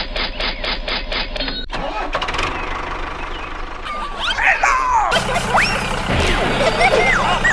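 A small engine starting with rapid, even popping, then running steadily, with high squeaky chirps gliding over it in the second half.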